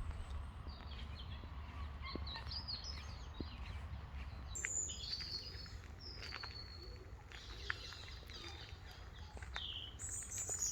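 Several kinds of songbirds singing in woodland: quick chirps and twittering trills mixed with a few short, clear whistled notes, overlapping from different birds. A steady low rumble runs underneath.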